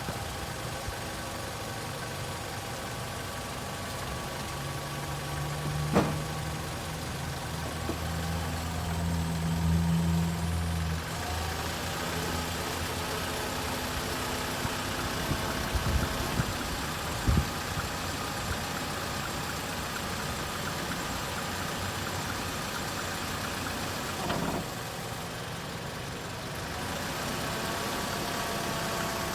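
Nissan Rogue running in drive with its wheels raised off the ground and turning, a steady engine and drivetrain hum from a car with a noisy wheel bearing. The hum swells for several seconds early on. There is a sharp click about six seconds in and a few short knocks a little after the middle.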